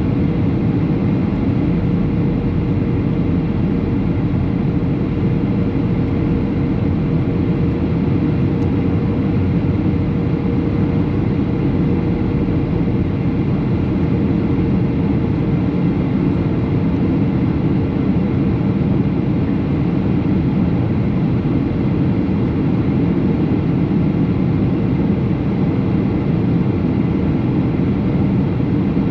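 Steady in-flight cabin noise of a Boeing 737: a continuous engine and airflow rush, heaviest in the low end, with a faint steady hum over it.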